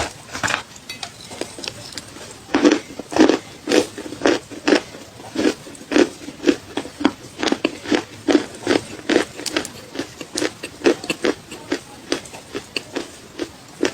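A person chewing crunchy clay close to the microphone: a steady run of short, dry crunches about twice a second, getting louder and more regular a couple of seconds in.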